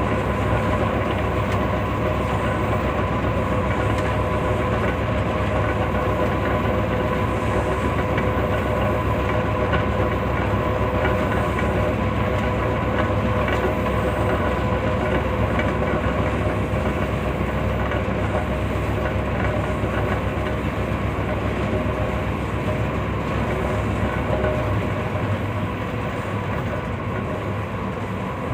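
Pakistan Railways passenger train running along the track: a steady rumble with a steady hum and faint clicks from the wheels. The deep rumble eases slightly near the end.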